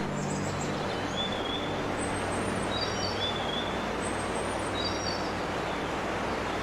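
Steady rushing roar of a waterfall, with a small bird chirping in two short bursts of high calls, about two seconds in and again about five seconds in.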